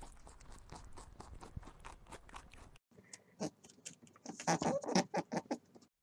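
Faint rapid clicking at first, then after a break louder clusters of short clicking grunts from a hare, strongest from about four to five and a half seconds in.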